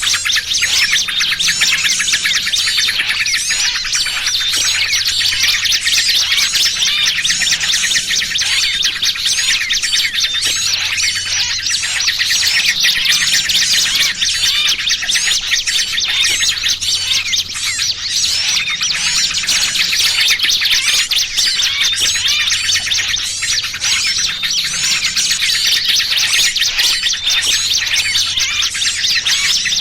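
Dense, unbroken chorus of small songbirds chirping and twittering over one another: a bird-lure mix of noisy yellow-vented bulbul (trucukan) chatter combined with the agitated calls of a trapped small bird, used to draw wild birds in.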